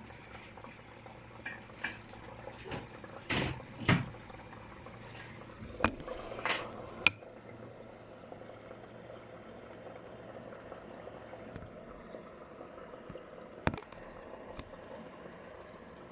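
LG F12B8WDS7 washing machine washing on its delicate 40° programme: water and laundry sloshing in the turning drum, with a few splashes and sharp knocks, over a low steady hum that fades about eleven seconds in.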